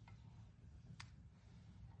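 Near silence with two faint clicks about a second apart.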